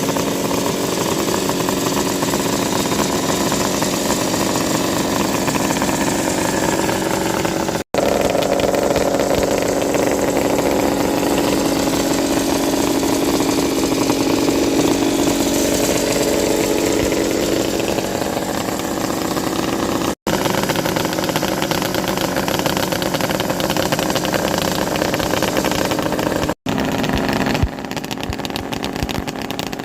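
1974 Kawasaki H1 500 two-stroke triple running through Bill Wirges expansion-chamber exhausts at a steady idle, getting a little quieter near the end. The sound cuts out briefly three times.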